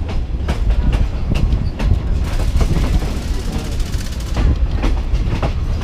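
Passenger train running on the rails: a steady low rumble with irregular clacks and knocks from the wheels and carriage.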